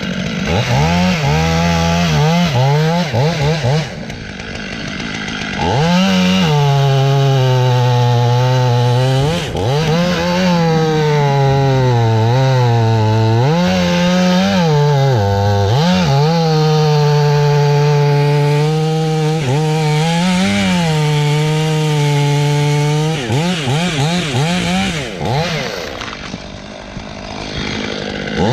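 A 500i two-stroke chainsaw idles, then revs to full throttle about five seconds in and cuts wood. The engine speed sags and recovers several times as the chain loads in the cut, then drops back to idle with a few short throttle blips near the end.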